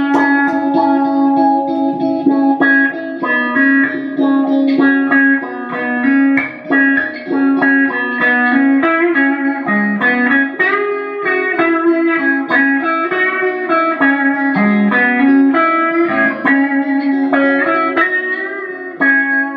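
Harley Benton ST-62 Strat-style electric guitar played through an amp: a melodic phrase of plucked notes, each ringing on into the next.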